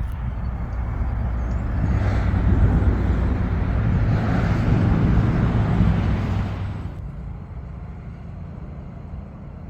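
Diesel engine of a passing rail vehicle rumbling close by, the noise swelling over the first few seconds and falling off sharply about seven seconds in.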